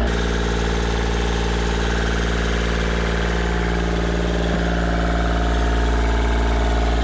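Sailboat's inboard auxiliary engine running steadily under way, an even, unchanging drone.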